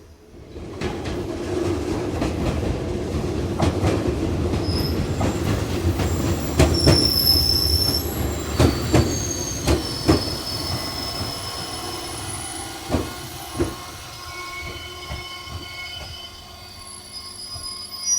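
Electric train running over the rails through the station. There is a low rumble, a string of sharp clicks over the rail joints and high-pitched wheel squeal. It builds about a second in and eases off after about ten seconds, while the squeal carries on.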